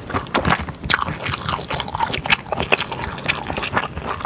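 Close-miked mouth sounds of eating stir-fried yakisoba noodles: chewing a large mouthful, with many quick, irregular clicks.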